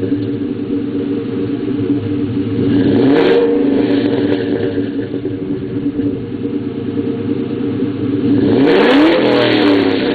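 1999 Ford Mustang SVT Cobra's 4.6-litre DOHC V8, fitted with long-tube headers, an H-pipe and Flowmaster mufflers, running at idle and revved up and let fall back twice, about three seconds in and again near the end.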